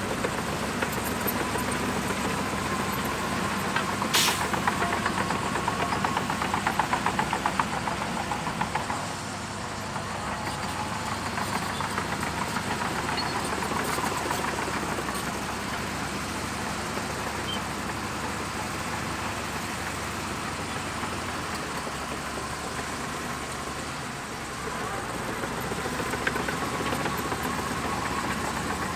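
Shantui DH17C2 crawler bulldozer's diesel engine running steadily while working, with a sharp click about four seconds in and a stretch of rattling soon after.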